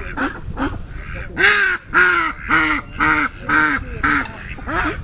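Waterfowl calling in a fast repeated series, about two calls a second, loudest in the middle.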